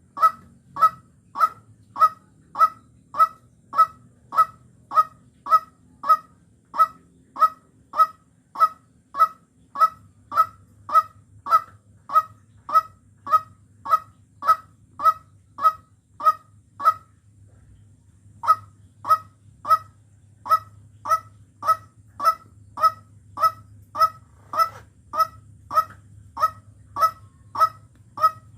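White-breasted waterhen giving its monotonous repeated call, one short loud note at nearly two a second. The series breaks off for about a second and a half past the middle, then starts again.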